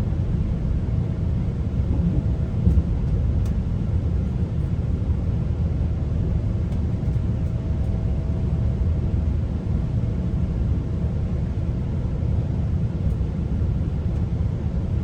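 Steady low rumble of a moving GO Transit commuter train heard from inside a coach: wheels running on the rails, with a faint steady hum over it.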